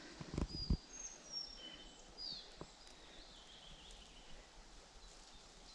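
Wild birds chirping faintly: scattered short, high whistles and chirps, one sliding downward about two seconds in. A few low bumps of handling noise come in the first second.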